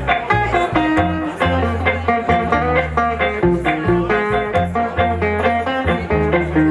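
Live blues band playing an instrumental passage: a guitar picks a melodic line over steady bass notes and a regular beat.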